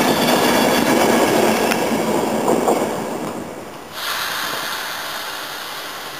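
Rumble and clatter of a locomotive-hauled passenger train's coaches rolling along the rails, with a few wheel clacks, fading as the last coach leaves. About four seconds in, the sound changes abruptly to a quieter, steady whir of an electric locomotive approaching in the distance.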